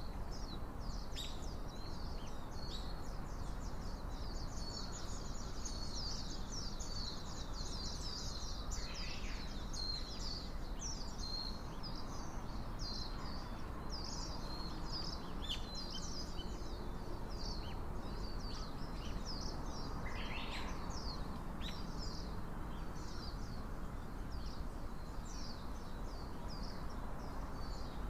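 Small songbirds chirping and twittering in a dense, continuous chatter of short high calls, over a steady low background hiss.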